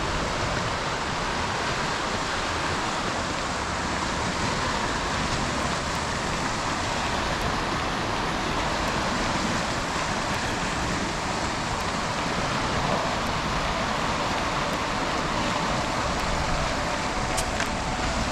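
Steady outdoor rushing noise, even and unbroken, with a few faint ticks near the end.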